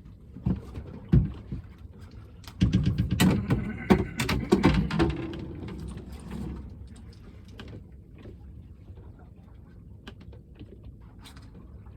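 Knocks and a busy stretch of clattering and thumping on a small fishing boat about three seconds in, as a hooked smoothhound is netted and handled aboard.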